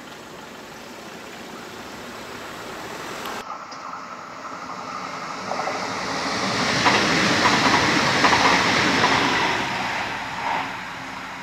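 A regional passenger multiple-unit train passing by. Its running noise builds, peaks with a quick clatter of wheels over the rails, then fades as it goes away.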